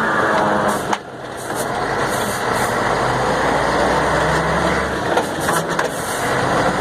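Mercedes-Benz 1634 truck running in gear, with a sharp click about a second in, after which the sound drops and then builds back up. The truck has a noise in gear only when off the accelerator, which the mechanic suspects comes from the differential.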